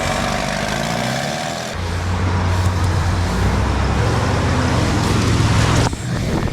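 Heavy off-road trucks' engines running hard under load, with a dense rushing noise over them. The sound changes abruptly twice: about two seconds in, where a deep low engine note takes over, and again near the end.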